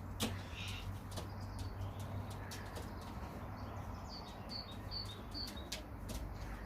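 Young racing pigeons at the aviary door, with scattered sharp clicks and wing flaps and a run of four short high chirps about halfway through.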